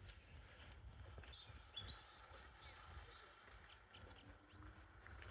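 Faint outdoor ambience: small birds chirping, with a short falling trill twice, over a low wind rumble on the microphone.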